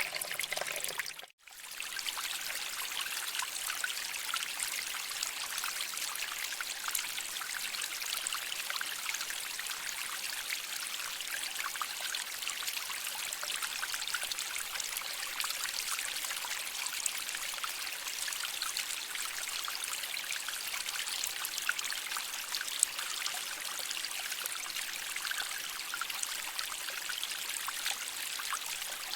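Shallow stream water flowing and trickling over rocks, a steady splashing hiss, cut by a brief moment of silence about a second in.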